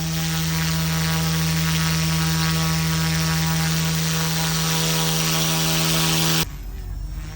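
Small electric RC helicopter running with a steady, even-pitched whine from its motors and rotors. About six and a half seconds in the sound cuts off abruptly and drops to a quieter, thinner buzz.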